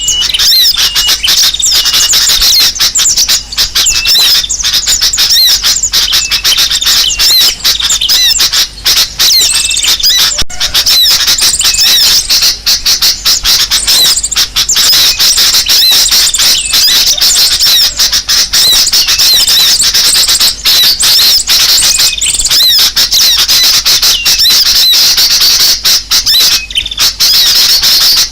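A loud, dense chorus of small birds' rapid, excited chirps and squeaks, running on without a break: a bird-luring recording of birds in a commotion, used by trappers to draw other birds in.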